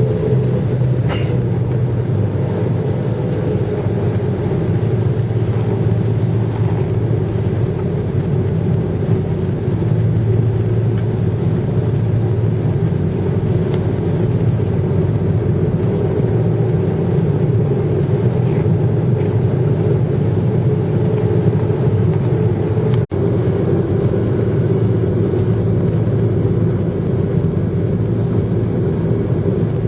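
Jet airliner engines and airflow heard from inside the passenger cabin: a steady rumble and whir with a low hum. The sound drops out for an instant about 23 seconds in.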